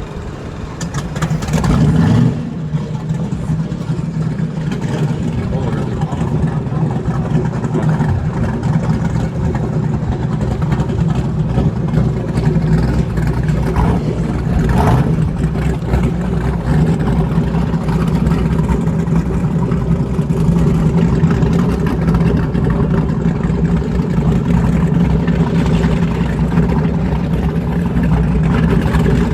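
An engine running steadily, rising briefly in pitch and loudness about two seconds in.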